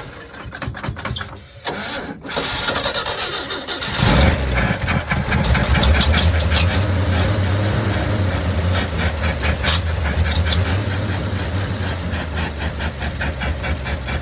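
1957 Chevrolet 3100 pickup engine cranking on the starter for about four seconds, fed a splash of fuel and boosted from a jump pack for its low battery. It then catches with a sudden rumble and keeps running with a steady, even pulse.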